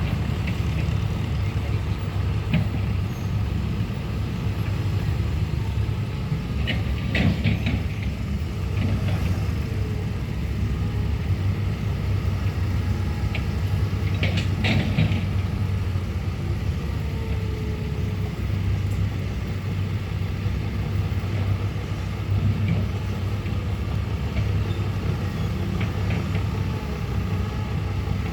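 An excavator's diesel engine runs steadily with a low drone while it digs. A few short, sharper sounds cut in about a quarter of the way through and again about halfway.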